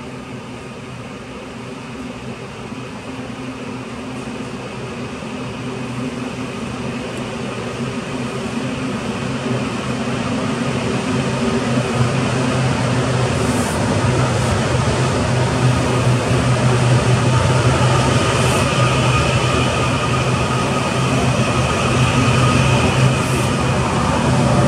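An EMU800 electric multiple unit pulling out of the station. Its low running hum and a higher motor whine grow louder over the first dozen seconds, then hold steady, with a few brief high hisses.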